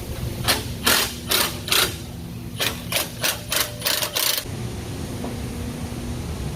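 A hand or power tool working on the car's stock exhaust during removal: about nine short, sharp bursts over some four seconds, then it stops.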